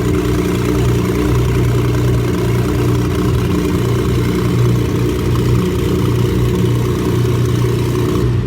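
Nissan RB26DETT twin-turbo straight-six idling steadily on its first start, running with no exhaust system fitted.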